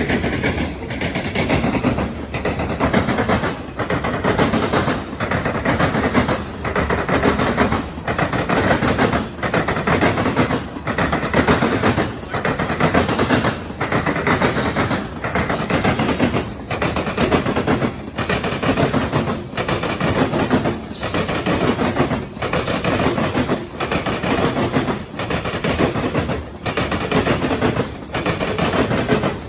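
Freight train of grain hopper cars pounding over a railroad diamond crossing: a loud, rapid clatter of steel wheels striking the crossing frogs, swelling and easing in a regular beat about every one and a half seconds as each car's trucks pass over.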